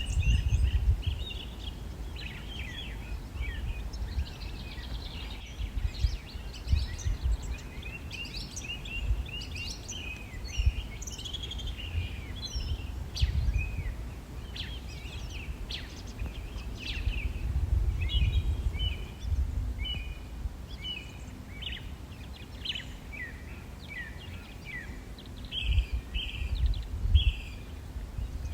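Songbirds chirping and singing in many short calls and trills, over a low rumble that swells and fades every few seconds.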